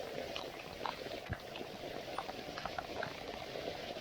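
Downpour of rain falling on the water and the kayak: a steady hiss with many scattered drops ticking.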